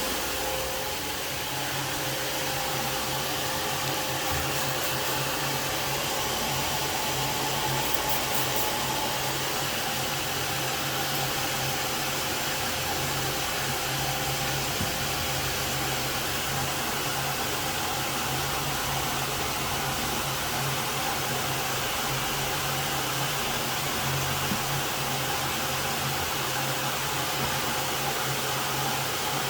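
Alfa Romeo Spider engine idling steadily, run after the leaking exhaust joints were resealed with RTV.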